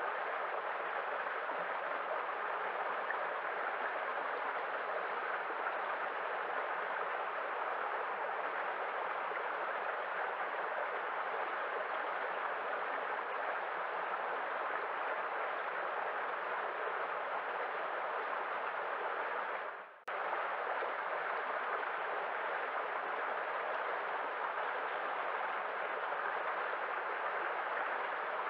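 Waterfall: a steady rush of falling water. About twenty seconds in it fades away for a moment and cuts straight back in, like the seam of a looped recording.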